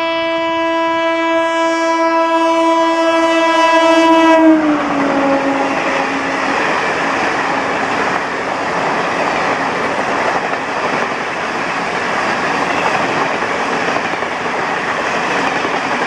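A WAP-4 electric locomotive sounds its horn in one long steady blast as it approaches, and the pitch drops as it passes, about four and a half seconds in. The Duronto Express coaches then rush past with a steady roar of wheels on rails.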